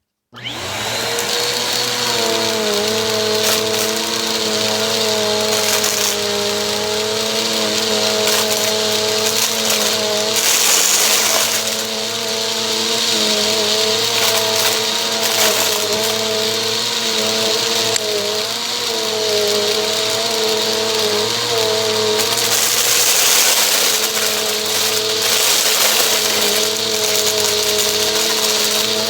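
Bissell vacuum cleaner running, cutting in abruptly at the start. Its motor tone wavers up and down as the suction load changes, over a loud hiss with crackling from foil confetti being sucked up.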